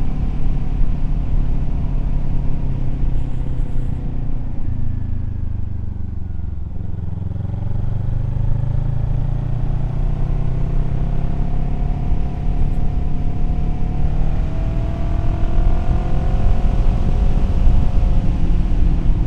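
Kawasaki Z400 parallel-twin engine running while riding. The engine note falls as the bike slows for the first six seconds or so, then climbs steadily as it accelerates away.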